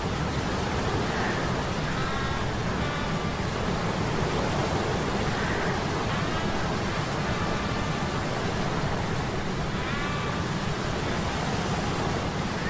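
Steady rushing sea-storm noise, with faint short metallic humming tones from gears coming and going over it.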